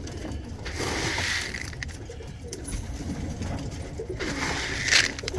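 Tippler pigeons cooing, with two short rustling bursts about a second in and near the end.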